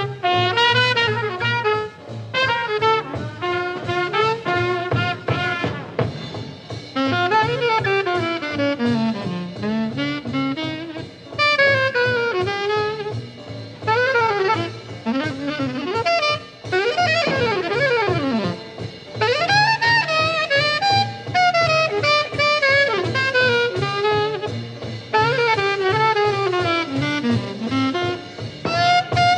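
Bebop jazz recording: a saxophone plays a fast solo of quick running lines and swooping glides over the rhythm section's bass and drums.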